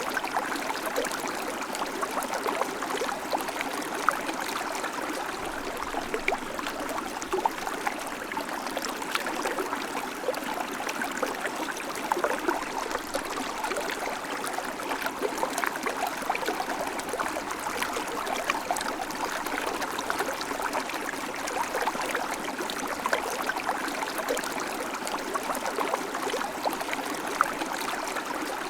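River water flowing over stones, a steady rushing babble full of small splashes and gurgles.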